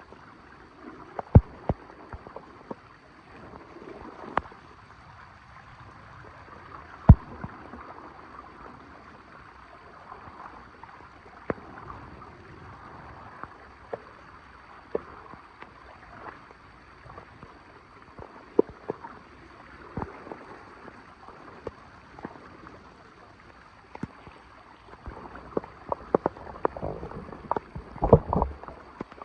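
Floodwater gurgling and running steadily into a storm drain, with scattered sharp knocks and clatters, the loudest about a second in and about seven seconds in, and a busy run of clattering near the end.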